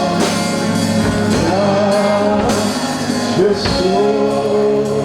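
Live church worship music: a band with drums and guitar, and a voice singing long held, sliding notes.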